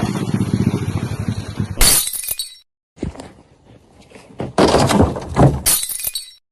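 Glass breaking: a sudden loud crash with high ringing about two seconds in, and a second shattering crash near the end, after a steady rumbling noise at the start.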